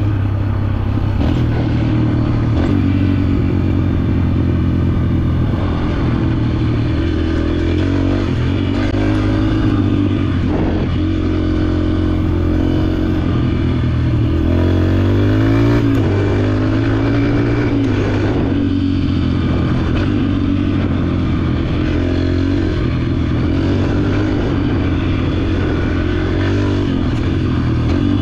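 Dirt bike engine running under the rider, mostly holding steady revs. The revs rise and fall in a short swing about halfway through.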